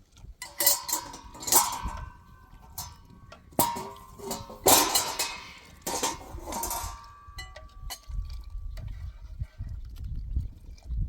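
Metal objects clinking and clanking against each other, several sharp knocks with short ringing tones that hang on after them, ending about seven seconds in.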